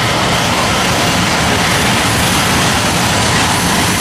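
Freight train cars rolling past at close range: a loud, steady rumble and rattle of wheels on rail.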